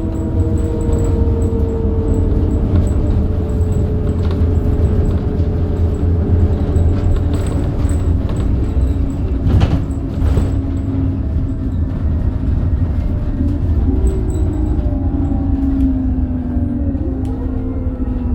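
Scania K270UB bus with a Scania DC9 nine-litre five-cylinder diesel and ZF Ecomat automatic gearbox, running with a deep rumble while its drivetrain whine falls slowly in pitch as the bus slows, the tones shifting again later on. Two short knocks about ten seconds in.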